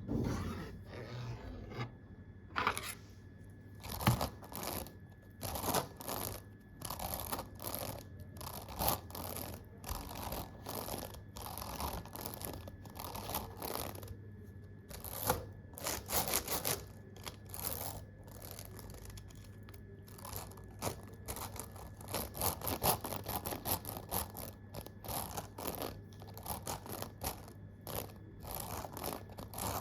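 Keyboard keys being tapped close up: a dense, irregular run of dry clicks, sometimes in quick flurries, with a brief lull about halfway through.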